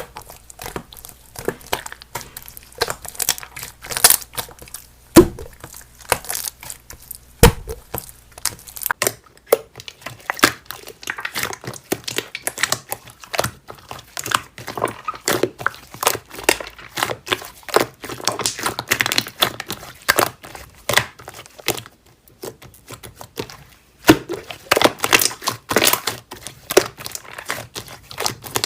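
Slime being squeezed and worked by hand: a dense run of irregular crackling clicks and small pops, with two heavier thuds early on.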